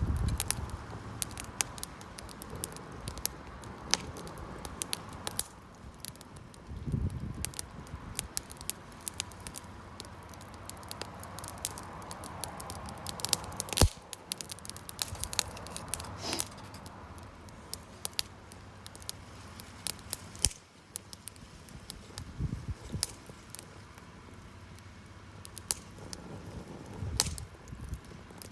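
Wood campfire crackling with irregular sharp pops over a soft hiss of burning, including one especially sharp pop about halfway through. A few dull low thuds sound at intervals.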